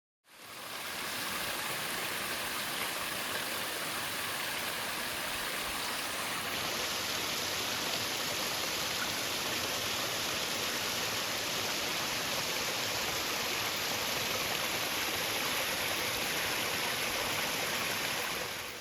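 Waterfall: water pouring and rushing in a steady, even wash of sound.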